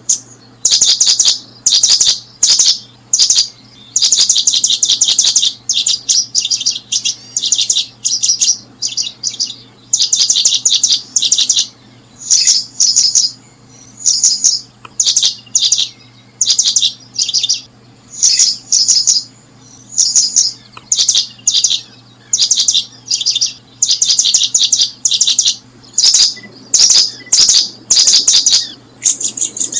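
Small bird chirping in rapid trains of short high notes, burst after burst with brief gaps, over a faint steady low hum.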